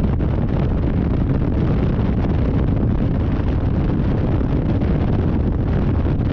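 Loud, steady wind buffeting and rumble on a riding motorcycle camera's microphone, crackling throughout.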